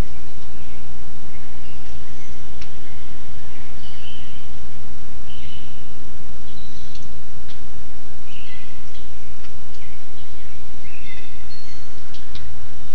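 Small birds chirping in short, scattered calls over a loud, steady outdoor hiss, with a few sharp ticks.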